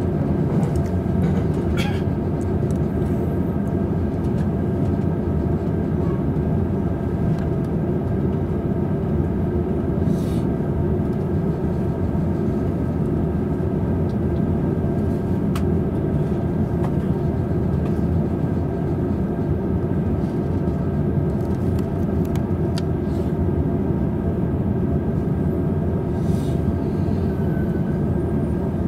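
Cabin noise inside a double-deck Green Car of a JR East Tokaido Line local train as it runs and pulls into a station: a steady rumble with a faint constant hum and a few short clicks.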